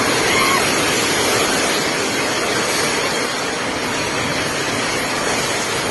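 Typhoon wind and rain: a steady, loud rushing noise without a break.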